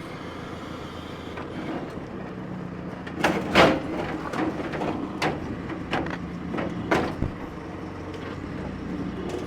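Telehandler's diesel engine running steadily as its forks pull at a truck cab, with several metal creaks and bangs from the cab, the loudest about three and a half seconds in.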